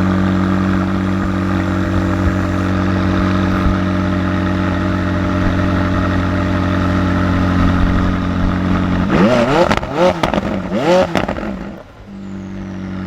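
Ferrari F12tdf's V12 idling steadily, then blipped three times in quick succession about nine seconds in, each rev rising and falling sharply, before settling back to idle.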